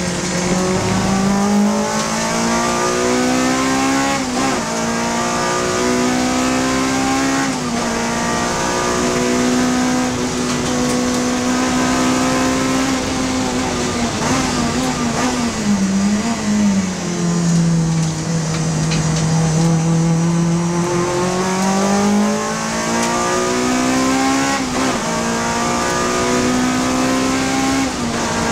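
Honda Civic FD2 race car's four-cylinder engine driven hard on track. The engine note climbs under acceleration and drops sharply at upshifts, about 4 and 7 seconds in. Midway it falls and holds lower for a few seconds, as through a slower corner, then climbs again.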